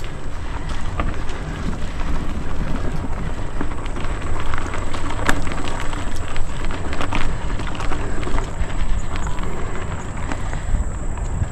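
Mountain bike riding a rough dirt trail: a steady crunch and crackle of tyres on the ground, with many sharp clicks and rattles over bumps and a strong low rumble underneath.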